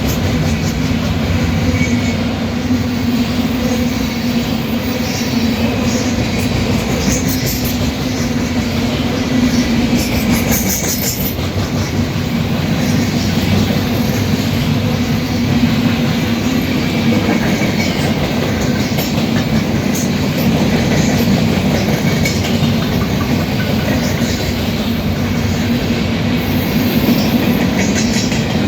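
A freight train of empty soybean cars rolling past at steady speed, its wheels running loud on the rails.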